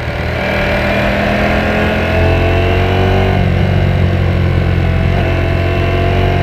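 Ducati Panigale V4S's 1103 cc V4 engine under way, pulling up through the revs for about three seconds. The pitch then drops at a shift, and it climbs again near the end.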